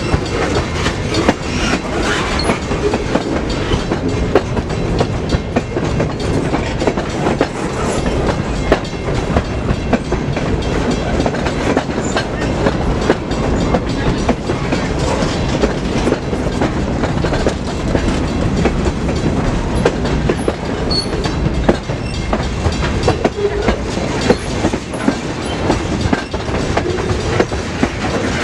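Freight train cars rolling past, wheels clicking over the rail joints in a steady, dense stream of clacks.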